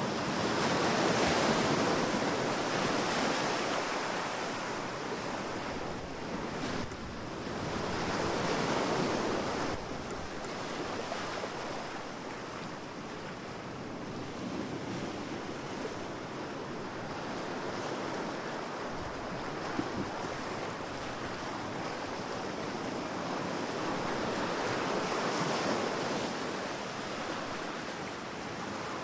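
Ocean waves breaking and washing up on a beach, the surf swelling and ebbing in slow surges, with some wind noise.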